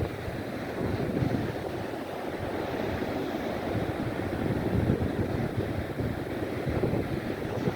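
Sea waves washing ashore under gusty wind buffeting the microphone, a continuous rumbling rush with no distinct events.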